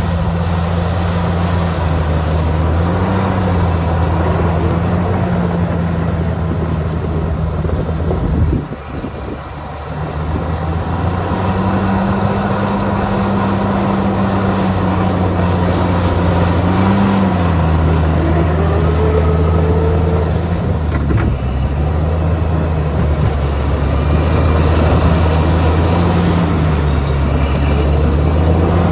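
Heavy diesel engine of earthmoving machinery running steadily, its pitch stepping up and down several times as it works. The sound drops briefly about nine seconds in.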